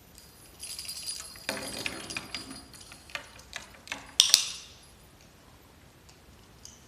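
Light metallic jingling and clinking, followed by scattered clicks and two sharp, loud clicks about four seconds in.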